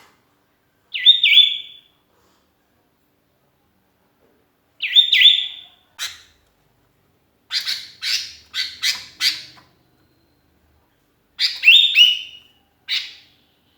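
Sooty-headed bulbul (kutilang) calling: short bubbly phrases of two or three notes, spaced a few seconds apart, with a quick run of about five sharp chirps in the middle.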